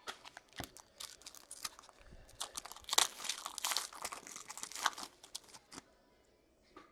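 A foil trading-card pack wrapper being torn open and crinkled by hand, a run of crackling that is busiest in the middle and stops about a second before the end.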